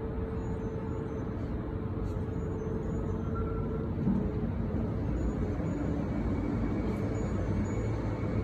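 Sawmill line machinery running: a steady mechanical rumble with a held hum, and a brief louder knock about four seconds in.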